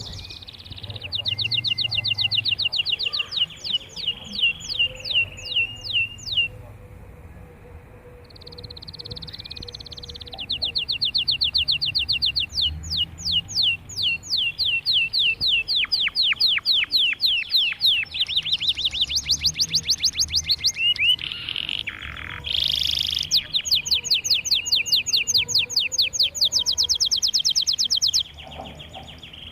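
Domestic canary singing: long rolling trills of rapid, evenly repeated high notes, phrase after phrase, with a pause of a few seconds a quarter of the way in.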